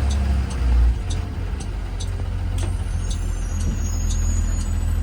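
2020 Blue Bird Vision school bus running, heard from on board: a steady low engine and road rumble, with an even clicking about twice a second and a thin high squeal in the middle.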